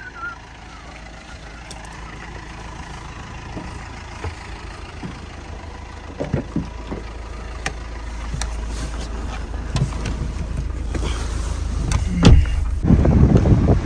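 Car driving, a low steady rumble of engine and road that slowly grows louder, with a few scattered knocks. A louder rush of noise comes in near the end.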